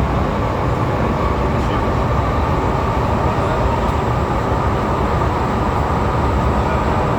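MTR M-Train electric multiple unit running at speed between stations through the underground tunnel: a steady rumble of wheels on rail with a faint whine that grows slightly near the end.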